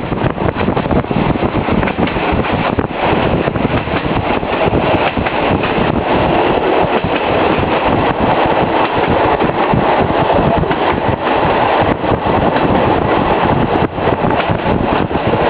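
Running noise of a moving train, a loud steady rush with brief knocks and flutters, with wind buffeting the microphone.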